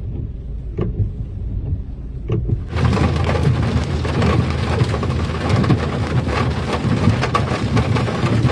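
A low rumble with a few scattered ticks, then about a third of the way in a sudden switch to heavy rain: a loud, steady hiss of rain with dense pattering of drops striking a surface.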